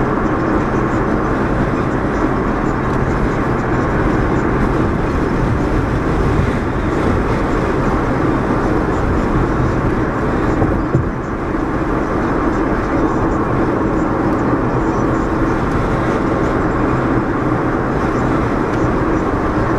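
Steady road and engine noise inside a moving car's cabin, a low rumble with a constant hum, dipping briefly about eleven seconds in.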